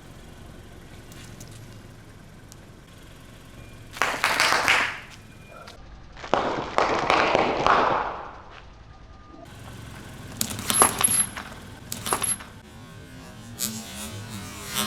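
Objects crunching and cracking as they are crushed under a car tyre: a short burst of crunching about four seconds in and a longer crackling crunch about six seconds in, then a few sharp cracks a little after ten seconds.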